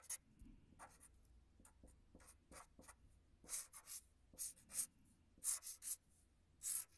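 A pen drawing on paper: short scratching strokes across the page, faint at first and then a quicker run of stronger strokes in the second half.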